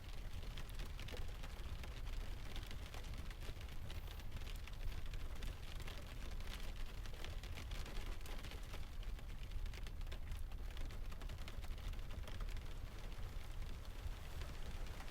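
Layered rain and ocean ambience: a steady low rumble of distant surf under a hiss of rain, dotted with many small ticks of drops or fire crackle.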